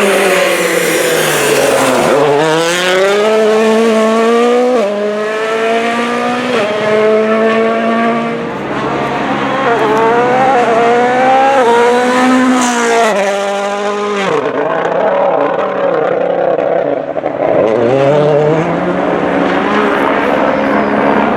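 World Rally Car's 1.6-litre turbocharged four-cylinder engine at full throttle, the pitch climbing and dropping back with each upshift every couple of seconds. Then quick on-off throttle, and the engine note falls away about two-thirds of the way through, with another rise near the end.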